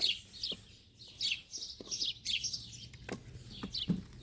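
Small birds chirping over and over, each chirp a short falling note, a few a second. There are a few light knocks near the end.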